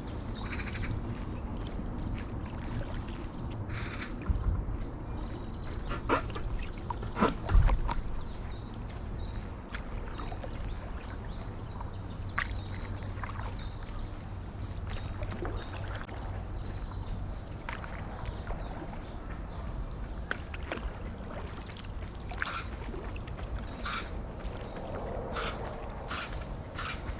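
Birds singing with quick repeated high notes, over the water sounds of a stand-up paddleboard paddle dipping and dripping and a steady low wind rumble. A few sharper knocks or splashes come between about four and eight seconds in, the loudest near the middle of that stretch.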